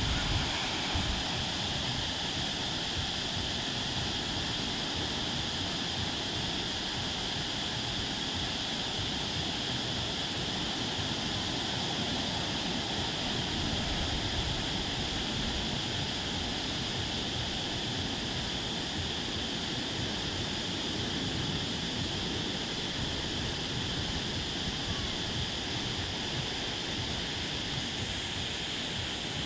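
Steady rush of water noise, with an even band of higher hiss running through it.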